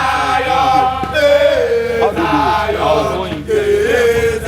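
Men's voices singing a chant in Twi, with long held notes.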